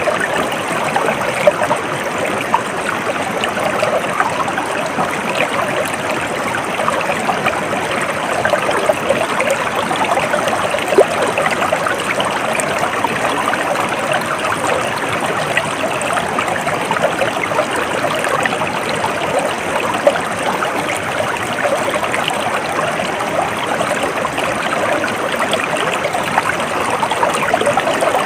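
A stream of water flowing steadily, with a continuous babbling, trickling rush.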